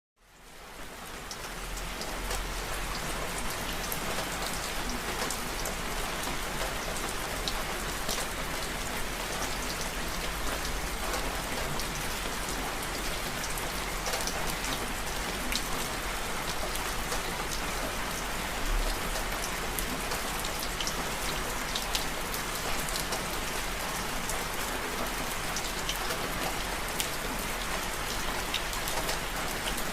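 Steady rain falling on a surface, a dense hiss with many individual drops ticking through it. It fades in over the first second or two.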